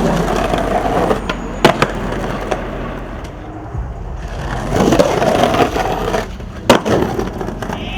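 Skateboard wheels rolling, broken by sharp clacks of the board: one about a second and a half in, and the loudest near the seven-second mark.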